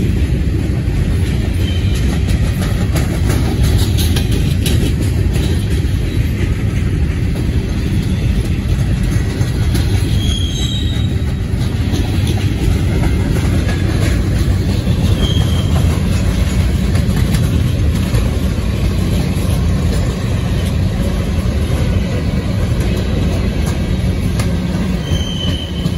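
Freight cars of a Norfolk Southern train, open gondolas and covered hoppers, rolling past close by: a steady rumble of steel wheels on the rails, with a few brief high wheel squeals.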